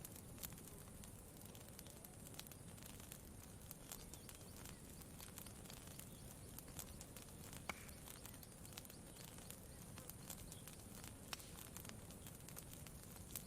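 Campfire crackling faintly, with scattered small pops and one sharper pop a little past halfway, over a low steady background hiss.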